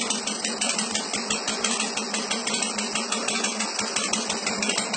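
Harley-Davidson 1200 cc V-twin idling through an aftermarket exhaust, a steady uneven, loping beat of exhaust pulses.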